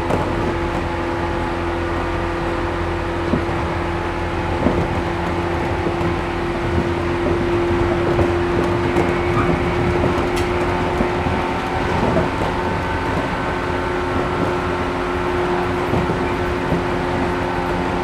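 Cabin of a JR 113 series 1500-subseries resistance-controlled electric train running at a steady speed: a steady hum from the motors and gears over the low rumble of the wheels on the rails, with a few faint clicks.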